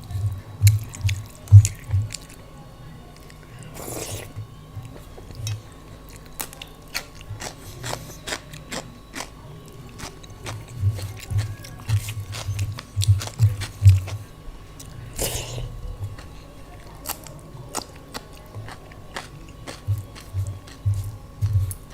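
Close-miked eating: chewing with crunchy bites of a rice, daal and raw salad meal, heard as low rhythmic jaw thuds in runs of about three a second and many small mouth clicks. Two short rustling bursts come about 4 and 15 seconds in.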